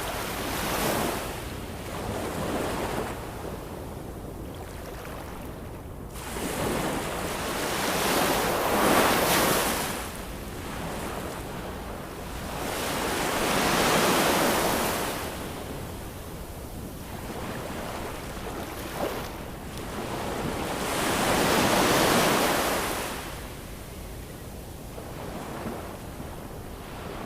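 Ocean waves breaking and washing in. Four loud swells, each lasting a few seconds, rise and fall back to a softer hiss between them.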